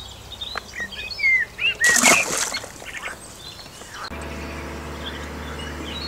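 Small birds chirping with short rising and falling calls, broken about two seconds in by one brief loud rushing burst. From about four seconds a steady low background music drone comes in.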